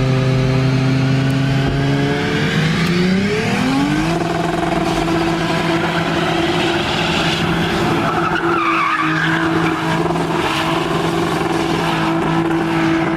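A car engine runs at a steady note, then revs up about three seconds in and is held at high revs, with tyres squealing.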